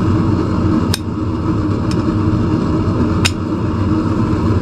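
Forge running with a steady rushing noise and low hum, while metal parts clink sharply twice, about a second in and again near three seconds in, with a fainter clink between.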